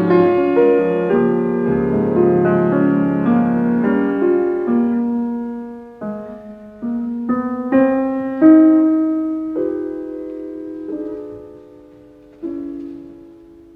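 Solo piano music: fuller chords for the first few seconds, then slower, sparser notes that ring and fade between strikes.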